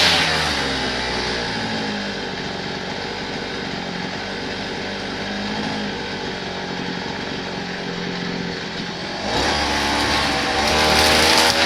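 A small petrol engine of lawn-care power equipment runs steadily. It is quieter and duller for most of the stretch, then grows louder again about nine seconds in.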